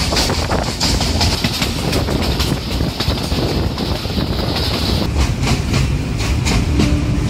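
Pakistan Railways passenger train (Allama Iqbal Express) running at speed, heard from on board: a loud steady rumble with the wheels clattering over rail joints in a repeating rhythm. A high hiss over it stops about five seconds in.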